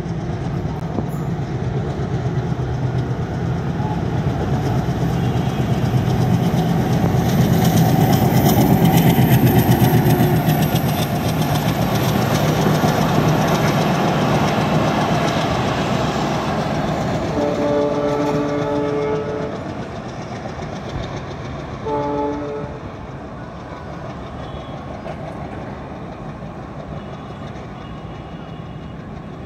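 A diesel locomotive hauling a passenger train passes close by, its engine running under the wheel clatter, at its loudest about a third of the way in. A train horn then sounds twice, a long blast of about two seconds just past halfway and a short one a few seconds later, as the coaches roll on and the rumble fades.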